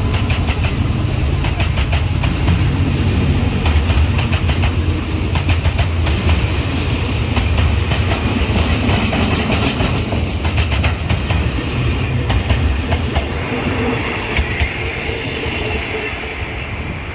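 Train passing on the rails: steel wheels clicking over rail joints above a steady low rumble. The clicks come thick and fast for the first several seconds, then thin out, and the sound eases off near the end.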